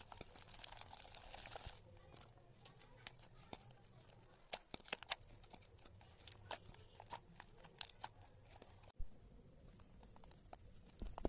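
Slime being squeezed and stretched by hand: a dense sticky crackling for the first second or two, then many scattered clicks and pops.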